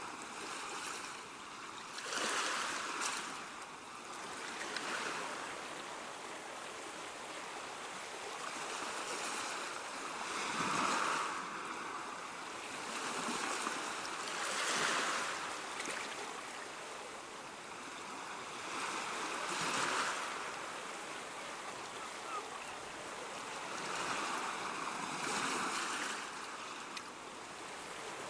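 Ocean surf: waves breaking and washing in, a steady hiss that swells and eases every few seconds.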